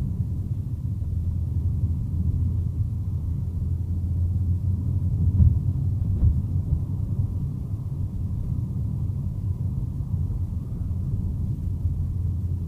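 Steady low rumble of a car driving along a road, heard from inside the cabin, with two faint clicks around the middle.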